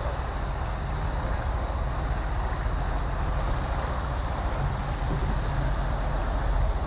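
Steady rush of heavy tropical rain with a constant low rumble underneath.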